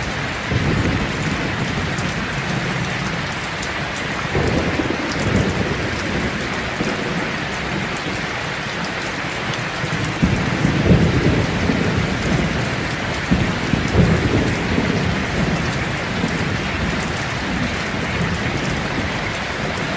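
Steady rain falling, with low thunder rumbling in slow swells during a thunderstorm.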